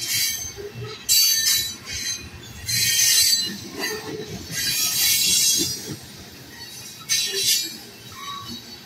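Freight train of loaded tank cars rolling past at speed, the wheels on the rails squealing in about five loud, high-pitched bursts over a steady low rumble.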